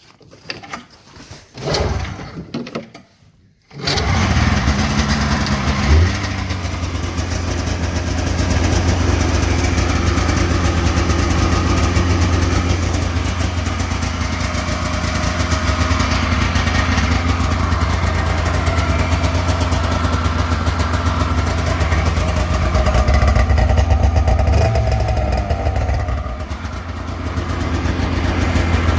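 1990 Polaris Indy 400 snowmobile's two-stroke engine cold-starting: a few short, uneven bursts as it is turned over, then it catches nearly four seconds in and settles into a loud, steady idle, with a short rise in revs just after it catches.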